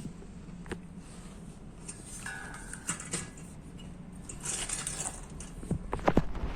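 A 12-inch industrial exhaust fan, driven by a used air-conditioner outdoor fan motor, running with a steady low hum. Scattered clicks and knocks sound over it, with a cluster of louder knocks near the end.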